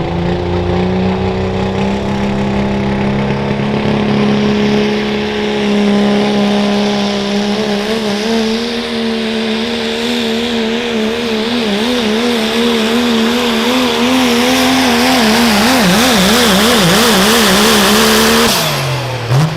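Diesel pickup truck pulling a sled at full throttle, its engine held high and steady. About halfway through, the engine note starts to waver quickly up and down, swinging wider toward the end. Near the end it cuts off sharply as the driver lets off.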